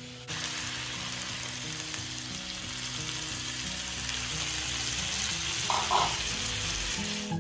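Food sizzling as it fries in hot oil in a pan, a steady hiss that starts about a quarter second in, with soft background music underneath.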